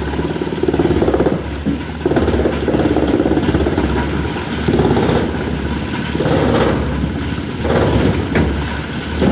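An engine running steadily under working load, surging louder for about a second roughly every one to two seconds.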